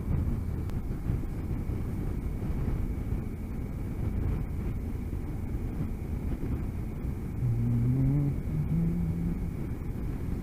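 Motorcycle riding at road speed: steady low engine rumble mixed with wind and road noise, with a short pitched note rising and holding a little before eight seconds in.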